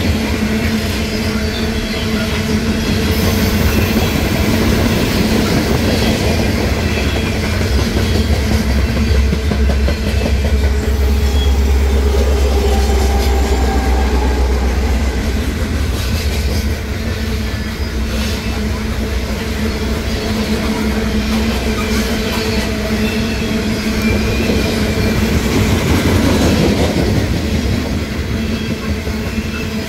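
Loaded coal train rolling steadily past at close range: the rumble and clatter of the coal cars' wheels on the rails. Around the middle, a mid-train GE Dash 9 diesel locomotive goes by and adds a deeper engine rumble for several seconds.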